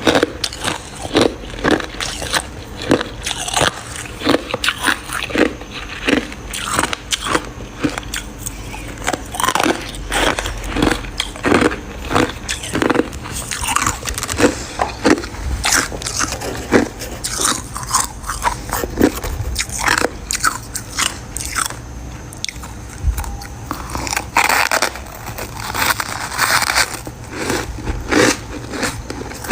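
Close-up biting and chewing of crunchy freezer-frost ice pieces: a quick run of sharp crunches throughout, with no pause.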